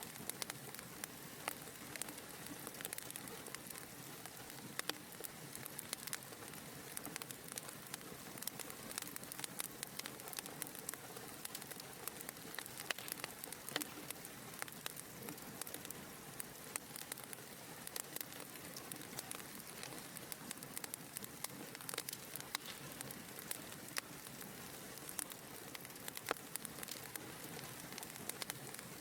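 Fire in a fireplace crackling: a steady soft hiss with frequent sharp pops and snaps scattered irregularly throughout.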